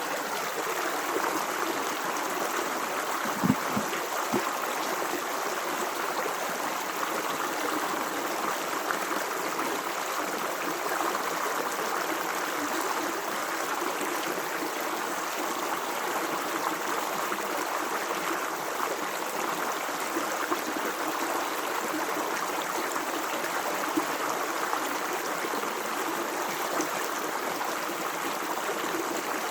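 Natural running water of a stream flowing steadily, a continuous rushing and babbling. Two brief low thumps come about four seconds in.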